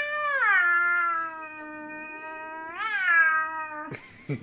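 Domestic cat yowling in protest at being brushed: one long drawn-out wail that drops in pitch about a second in, then swells into a second, louder rising cry near three seconds. A few sharp knocks follow near the end.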